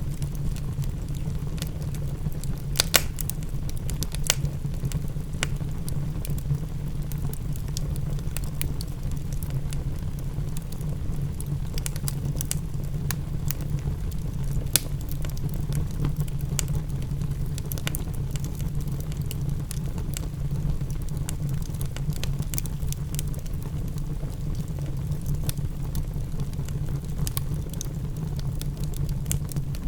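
Fireplace crackling, with scattered sharp pops, a couple of the loudest about three and four seconds in, over a steady low rumble.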